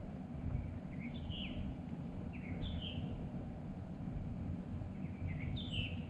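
A small bird chirping three times, each a quick pair of high notes, over a steady low rumble.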